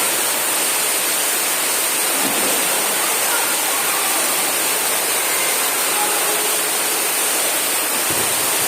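Steady rush of water at a swimming pool, an even hiss of falling and moving water.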